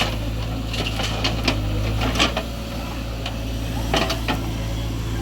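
Heavy diesel engine running steadily at a low drone, with a handful of short sharp knocks and clatters scattered through it.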